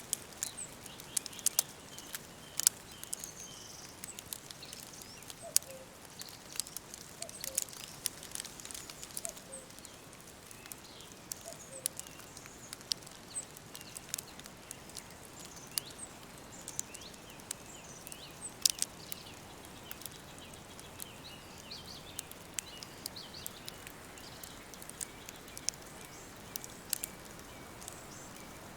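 Wood fire crackling, with irregular sharp snaps and pops over a quiet steady hiss, and birds chirping faintly in the background.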